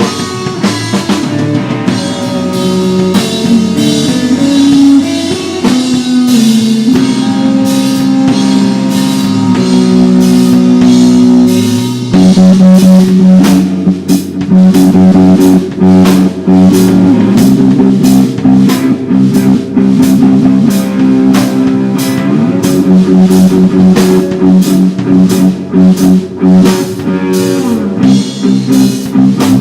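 Live rock band playing without vocals: guitar over a steady drum kit beat. The drums get louder and busier about twelve seconds in.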